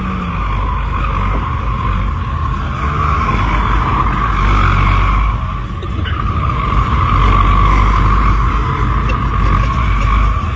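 A motor vehicle running, with a steady high squeal over a heavy low rumble.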